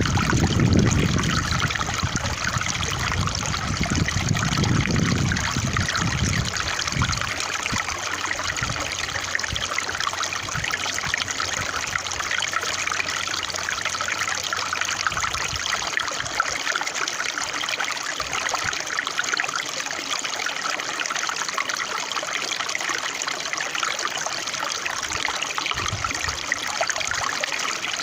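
Water of a small stream trickling steadily, with some low rumbling through the first seven seconds or so.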